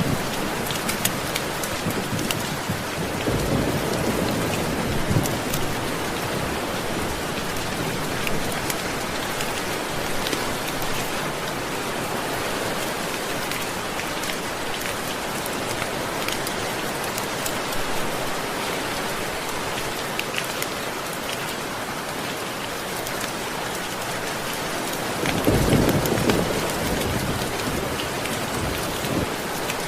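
Steady rain falling, with low rolls of thunder rumbling twice: about three seconds in and again near the end.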